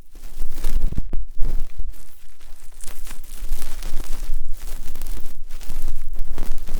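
Simulated ear cleaning: an ear-cleaning tool scratching and rustling right on the microphone, in strokes broken by brief pauses about once a second.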